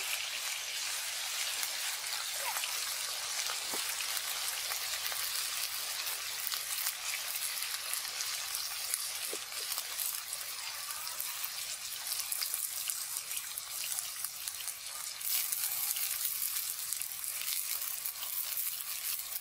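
Palm grubs frying in a hot metal wok over a wood fire: a steady sizzle dotted with many small pops and crackles.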